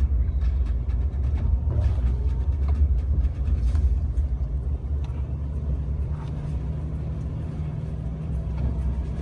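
Jeep Wrangler being driven slowly through snow, heard from inside the cabin: a steady low engine and road rumble. About halfway through, a steady hum settles in.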